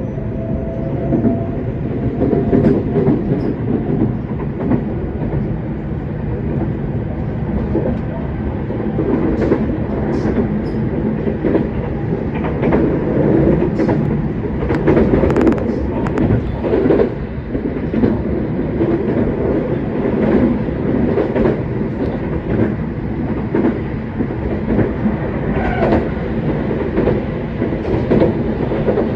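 JR West 227 series electric train running, heard from inside the passenger car: a steady rumble of wheels on rail with frequent clicks over the rail joints, as it climbs the steep grade between Seno and Hachihonmatsu.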